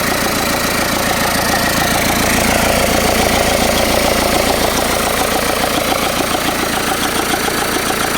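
Overhauled Changfa CF4C diesel engine running on test at a steady idle with a fast, even pulse. It gets slightly louder a couple of seconds in, then settles back.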